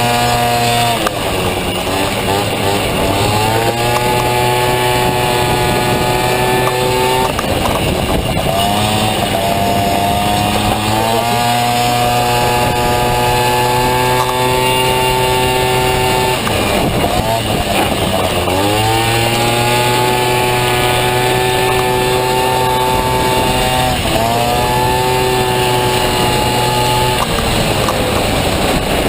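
Honda Motocompo with a Dio 50cc two-stroke single-cylinder engine running flat out. The revs hold at one steady pitch for several seconds at a time, then fall away and climb back several times as it slows and pulls out again.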